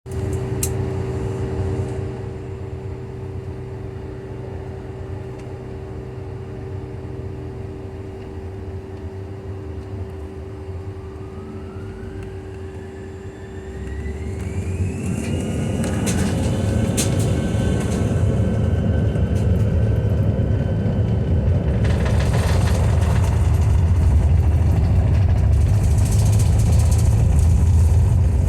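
Bombardier CRJ900's General Electric CF34 turbofans, first running steadily with a constant whine. About eleven seconds in, a rising whine sets in as the engines spool up to takeoff thrust, and from about fourteen seconds a deep rumble builds and holds for the takeoff roll.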